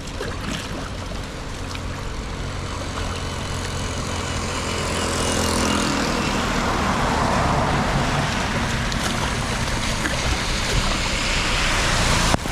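Floodwater rushing into a street drain, a steady rush that grows louder about five seconds in and cuts off suddenly near the end.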